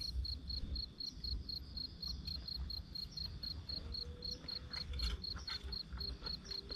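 A cricket chirping steadily, about six chirps a second, over a low rumble and scattered light clicks.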